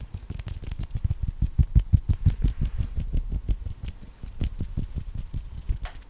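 Fast ASMR hand sounds close to the microphone: hands patting, rubbing and fluttering in quick succession, many soft thumps and clicks a second. The sounds are densest and loudest about two seconds in and thin out near the end.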